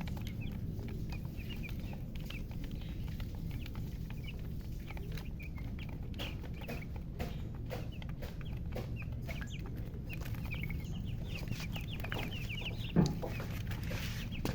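Chicks cheeping in many short, high chirps, with scattered light clicks and one thump about thirteen seconds in.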